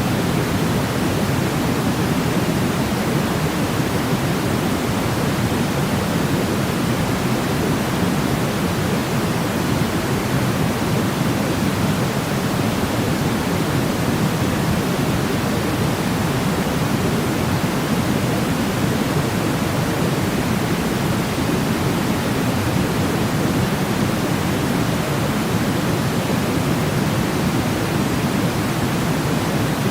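Steady sleep-aid white noise: an even, unbroken rush with a deep, low-weighted tone rather than a bright hiss, never changing in level.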